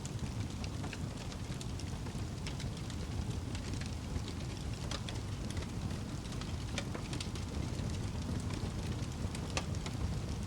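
Wood fire burning in a fireplace: a steady low rumble of the flames with frequent irregular crackles and small pops from the burning logs.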